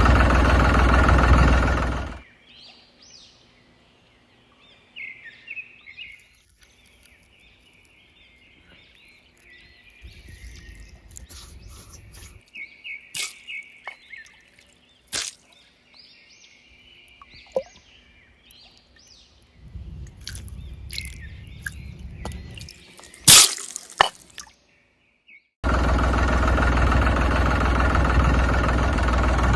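Heavy diesel machinery running loudly, cut off abruptly about two seconds in. Then birds chirping over a faint low rumble, with scattered clicks and one sharp knock. The loud machinery cuts back in near the end.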